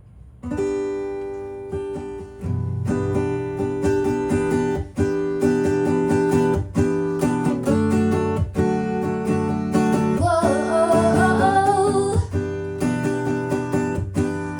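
Acoustic guitar playing a song's intro, strummed chords starting about half a second in. A wavering higher melody line joins over the chords about ten seconds in.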